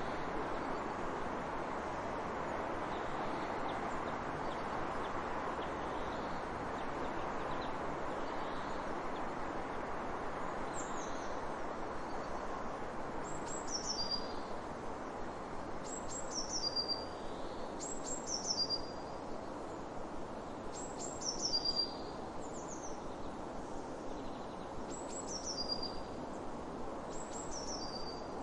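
A small bird singing a short, high phrase of a few quickly falling notes, repeated about every two seconds from partway in, over a steady rushing noise.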